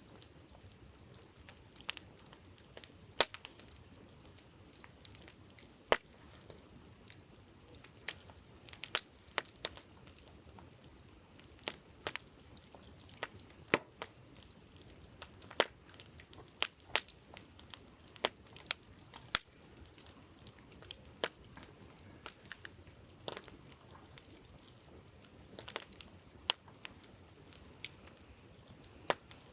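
Wood campfire crackling: irregular sharp pops and snaps, some louder than others, over a faint steady hiss.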